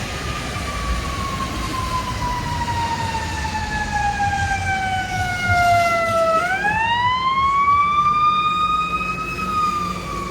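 Emergency vehicle siren wailing: one long tone slides slowly down for about six seconds, then climbs quickly back up and starts falling again, over a low steady rumble.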